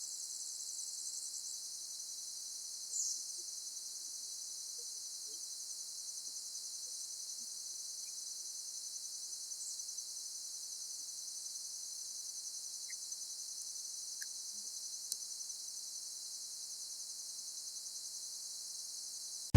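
Insects trilling steadily in a high, fast-pulsing drone, with a brief high chirp about three seconds in.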